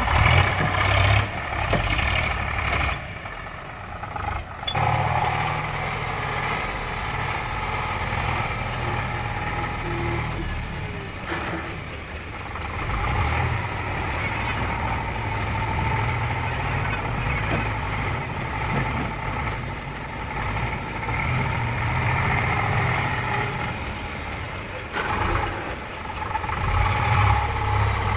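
Heavy vehicle engine, of a tractor or backhoe loader, running steadily at low revs, with a brief drop in level about three seconds in.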